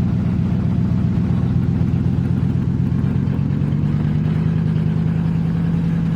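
Car engine running steadily at low speed, heard from inside the cabin while driving through a flooded street; its pitch rises slightly from about four seconds in.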